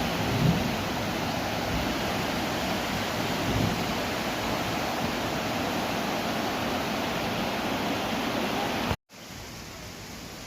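Heavy rain falling, a steady dense hiss with a couple of low thumps in the first few seconds. About nine seconds in it cuts off abruptly, then a quieter steady hiss follows.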